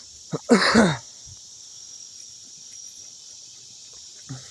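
Steady high-pitched chorus of crickets, with a brief human vocal sound about half a second in.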